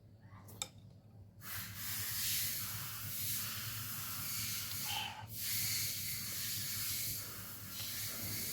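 Long, loud slurping of noodle soup, a hissing draw lasting several seconds, broken by short pauses, the clearest about five seconds in.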